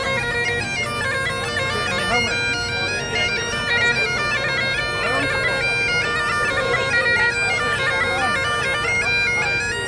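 Bagpipes playing a tune, the melody moving in quick steps over steady, unbroken drones.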